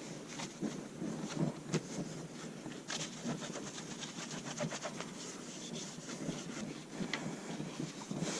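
Irregular small clicks, scrapes and rubbing of hand work on a motorcycle exhaust, with a few sharper clicks.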